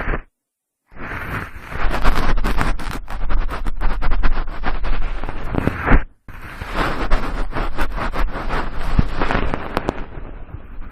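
Cotton swab swirled around inside the ear of a binaural microphone: close, loud scratchy rubbing full of fine crackles. It stops briefly just after the start and again about six seconds in.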